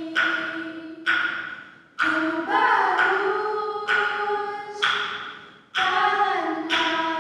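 Female vocal group singing a slow song with no instruments, holding long notes. A sharp tap about once a second marks the beat.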